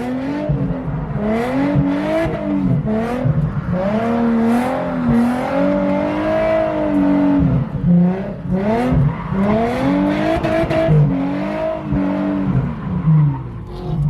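Drift car engine revving up and down again and again under repeated throttle blips and lifts, heard from inside the cabin as the car is thrown through figure-eight drift practice.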